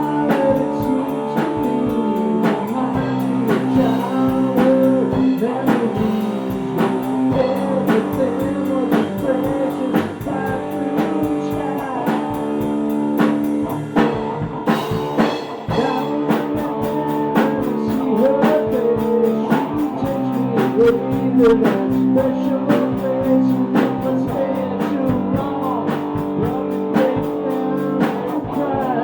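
A band playing a blues-rock number: electric guitar over a steady drum-kit beat.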